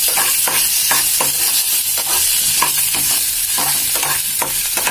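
Tempering of dals, chillies and curry leaves sizzling in hot oil in a metal kadai, while a spatula stirs and scrapes the pan about every half second.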